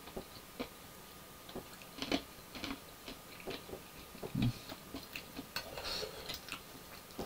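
Crunchy breaded hot chicken being chewed with the mouth closed: quiet, irregular crisp crackles and clicks, with a heavier low thump about four seconds in.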